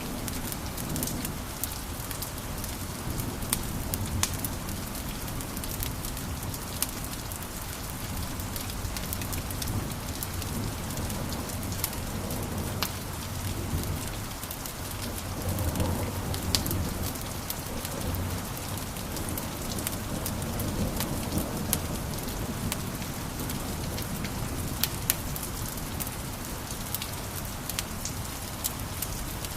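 Wood fire in a fireplace crackling: irregular sharp pops and snaps over a steady hiss and a low rumble of the flames, the rumble swelling a little about halfway through.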